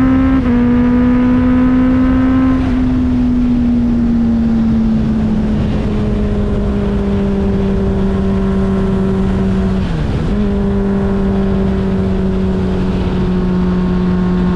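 Motorcycle engine running steadily under way, with wind rushing over the camera. The engine note dips briefly about half a second in, then falls slowly over the next few seconds, and dips and recovers again about ten seconds in.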